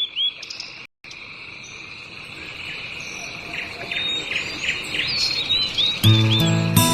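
A steady, high-pitched insect drone, like crickets, with repeated short bird chirps over it. Music comes in near the end.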